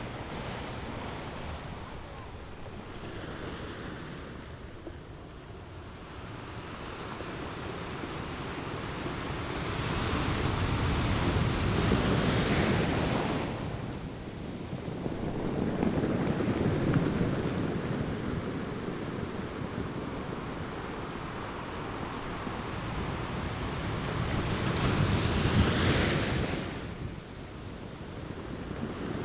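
Water waves washing in slow surges several seconds apart, with wind.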